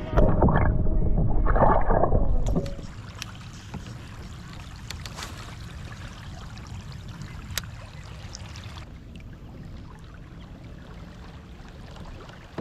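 Loud handling and water noise for about the first two and a half seconds. Then steady low wind and water noise around the kayak, with a few sharp clicks.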